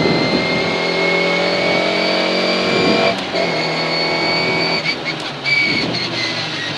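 Škoda Favorit rally car's four-cylinder engine heard from inside the cabin under acceleration, the revs climbing steadily, dropping at a gear change about three seconds in and shifting again near five seconds, with a thin high whine running over the engine note.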